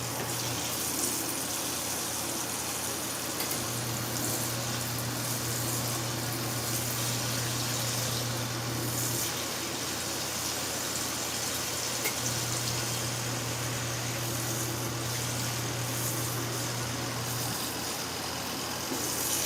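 Mini twin tub washing machine on its wash cycle: the wash motor hums in stretches of about five seconds with pauses of about three seconds, over steady water sloshing as the pulsator churns the clothes.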